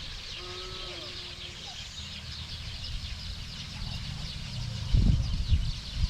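A dense chorus of small birds chirping, with a short lower-pitched bird call in the first second and a half. Under it there is a low rumble, and a couple of loud low thumps come about five seconds in.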